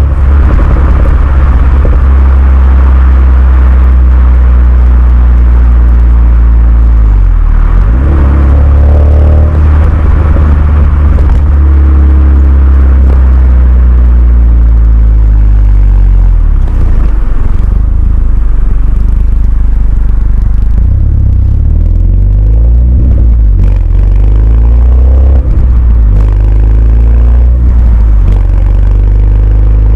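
Renault Mégane 2 RS's 2.0-litre turbo four-cylinder running through a Milltek cat-back exhaust while driving: a loud, steady low exhaust drone, with the revs dipping and climbing back a few times.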